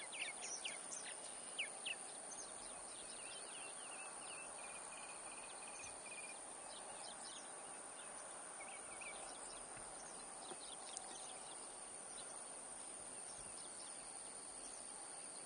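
Many small birds chirping and calling faintly over a steady outdoor hiss, with one short trill about five seconds in. Two soft clicks come about two seconds in.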